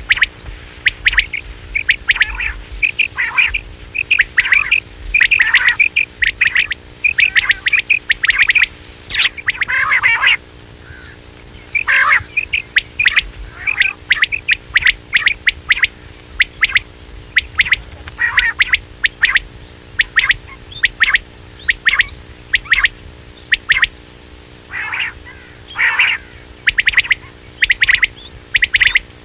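Quail calling over and over in a lure recording: short, sharp chirping notes in quick clusters, one after another, over a faint steady hum.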